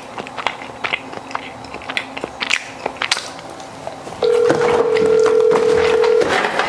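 Light scattered clicks and taps, then about four seconds in a telephone ringback tone sounds once for about two seconds, a steady low hum-like tone: the outgoing call is ringing and not yet answered.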